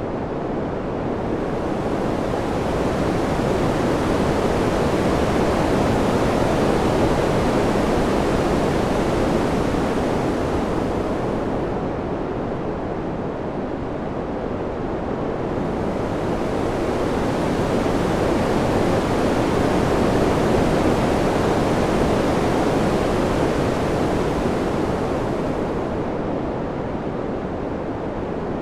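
Wind noise, an even rushing hiss that swells and eases in two slow gusts about fourteen seconds apart.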